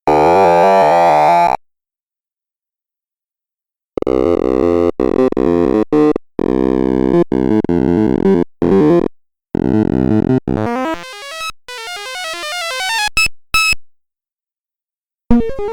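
Sorting-algorithm sonification from the Sound of Sorting program: rapid runs of synthetic beeps whose pitches jump up and down as array values are compared and moved. The runs come in bursts with sudden cut-offs and two silent gaps, one of about two seconds early on and one shortly before the end. In the later part the beeps thin into quick climbing runs.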